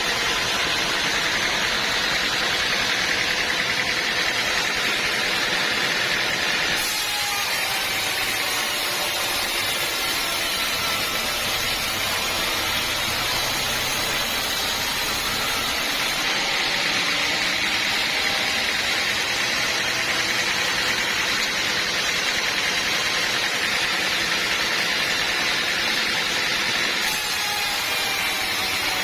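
Sawmill machinery running steadily with a loud, continuous mechanical noise. The sound changes abruptly about a quarter of the way in, again about halfway, and near the end.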